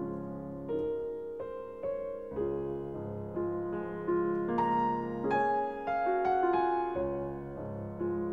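Soft piano music: a slow melody of single notes, changing about every half second, over held low chords.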